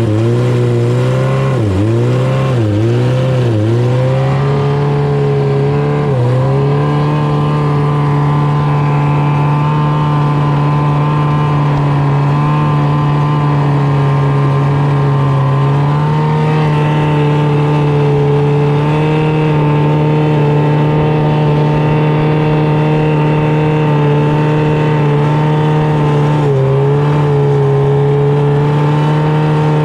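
A 600cc jet boat engine running hard. Its revs dip sharply a few times in the first few seconds, then climb and hold at a steady high pitch, with a slight further rise about midway.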